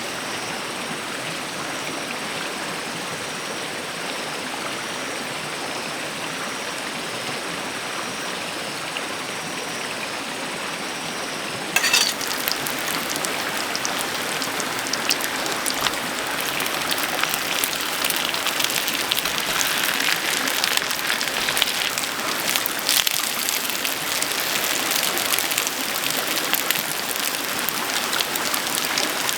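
Steady rushing of a mountain stream, with a faint high chirp repeating about once a second. About twelve seconds in it cuts abruptly to rain falling, a dense pattering of drops.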